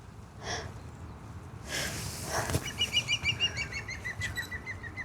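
A small bird singing a fast run of repeated high chirps, about six a second, that steps down in pitch partway through. A short rustle and a click come just before it.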